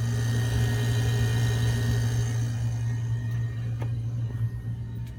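Boat's cabin air conditioner running: a steady low hum with an airy fan hiss over it, a sign that the unit is working well.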